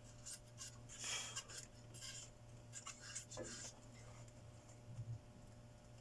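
Faint handling of small metal tools and parts on a workbench: scattered light clicks and short scrapes, with a brief louder scrape about a second in.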